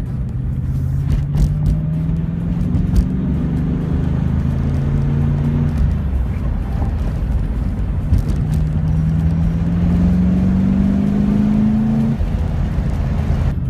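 Ford 5.0 V8 in the swapped BMW E36 M3 pulling under throttle, its engine note rising steadily for about six seconds, easing off, then rising again from about eight seconds in until near the end.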